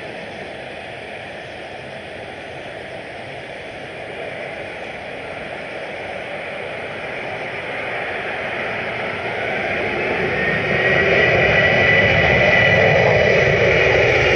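Jet engines of a Boeing 787-9 airliner growing steadily louder as it approaches over a constant rushing noise. From about nine seconds in, a high engine whine rises and then holds steady.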